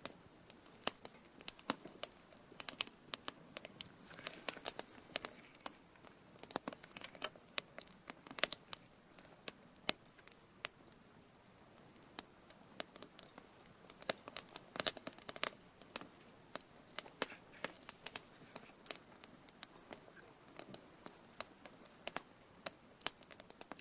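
Fire crackling, with many sharp, irregular pops and snaps over a faint hiss.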